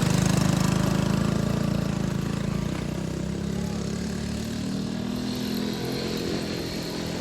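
Motorcycle engine running under throttle, its sound fading gradually as the bike pulls away.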